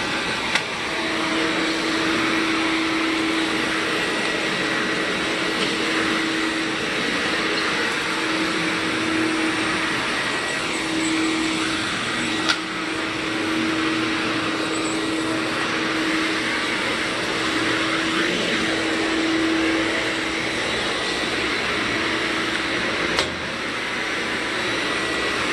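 Vacuum cleaner running steadily while it picks up glitter from a vinyl plank floor, its motor giving a constant whine, with three brief sharp clicks.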